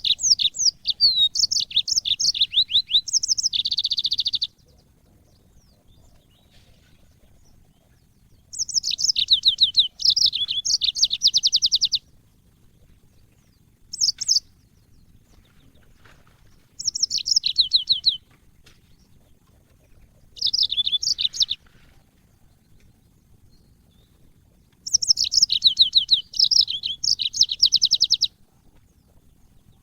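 Yellow-fronted canary (Mozambique canary) singing in six phrases of rapid, high chirping trills. Some phrases last three or four seconds and others under a second, with quiet pauses of a few seconds between them.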